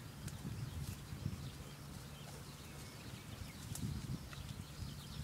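Japanese bush warbler giving faint, short high chirps now and then, over a steady low rumble with irregular thumps that is the loudest sound.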